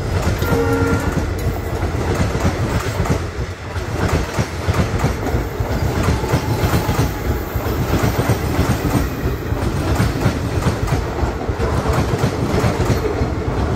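Indian Railways passenger coaches rolling past at speed, their wheels clacking rhythmically over rail joints above a steady deep rumble. A short blast of the train's horn sounds about half a second in.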